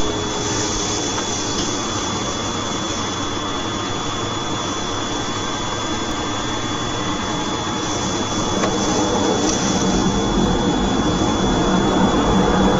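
Steady rushing noise of a jet airliner's engines, with a thin high whine running through it. The noise grows somewhat louder from about eight seconds in.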